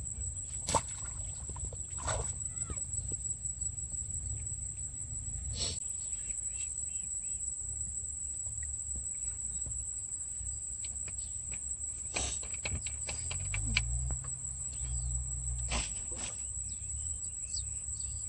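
A steady, high-pitched insect chorus, like crickets, holds one unbroken note throughout. Under it runs a low rumble, with a few sharp clicks or knocks scattered through.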